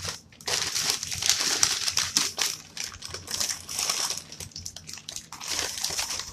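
Takeout paper food packaging crinkling and rustling as it is handled and opened, in several bursts with short lulls between them.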